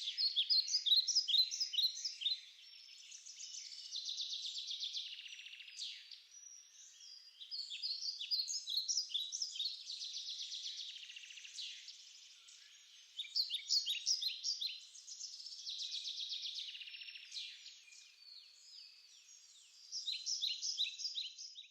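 Songbird singing in repeated phrases of about two seconds, alternating rapid trills with quick runs of short, falling notes.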